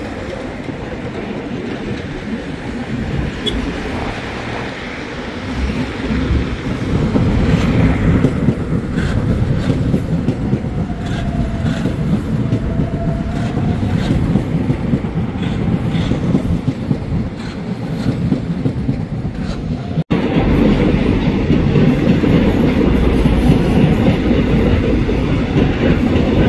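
Electric commuter trains running on the tracks: a steady rumble of steel wheels on rail with scattered clicks as the wheels pass over rail joints. About twenty seconds in the sound jumps to a louder, closer rumble of a train passing.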